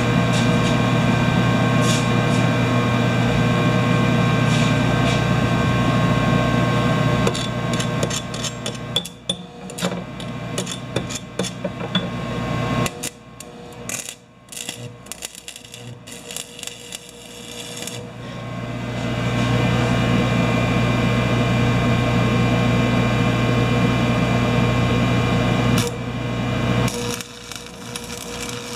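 Stick (arc) welding: the arc gives a steady buzzing crackle. It breaks off about seven seconds in for a spell of irregular clicking and tapping, resumes about nineteen seconds in, and stops again near the end.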